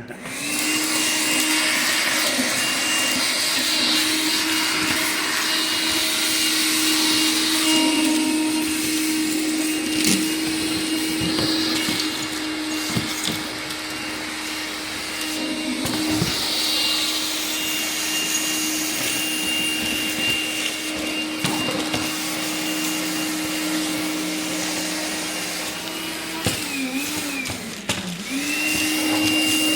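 Makita cordless vacuum switched on and spinning up within a moment, then running with a steady, even whine. Near the end its pitch sags briefly and then comes back up.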